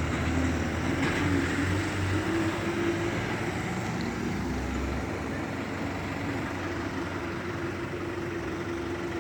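A vehicle engine running steadily. Its deep low rumble eases off about five seconds in, and a steadier hum carries on after that.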